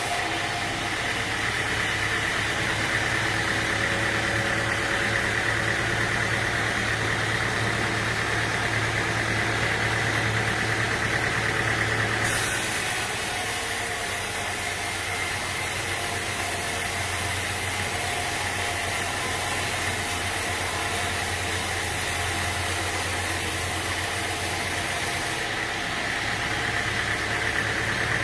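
Sawmill machinery running steadily, an engine-like hum with a higher whine over it. The sound changes abruptly about twelve seconds in and again near the end.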